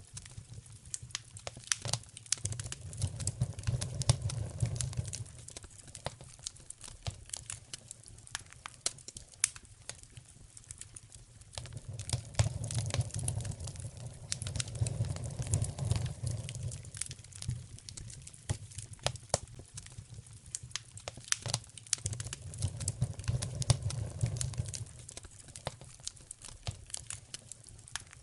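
Wood fire in a fireplace crackling, with frequent sharp pops and snaps scattered irregularly. A low rumble swells up and dies away three times.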